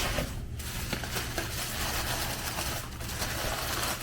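Rustling and crinkling of packaging as a small Corkcicle tumbler is unwrapped and taken out, with a few light clicks, over a steady low room hum.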